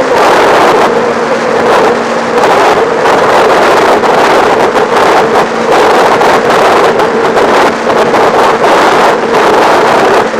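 Motorcycle engine running at a steady, fairly high speed while riding, loud and continuous, buried in heavy wind buffeting on the action camera's microphone.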